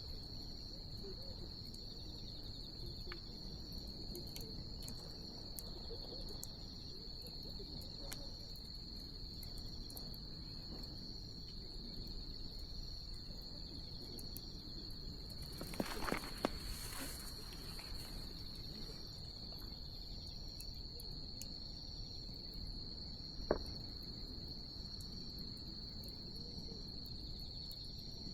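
Wood fire burning with scattered crackles, a brief hissing flare-up about halfway through and one sharp pop later on, under a steady chorus of crickets trilling.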